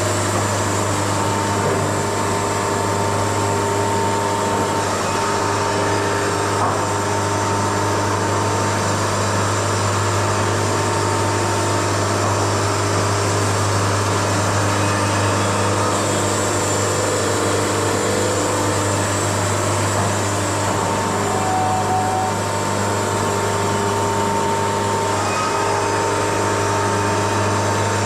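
Wood-Mizer LT70 band sawmill running steadily, a constant machine drone.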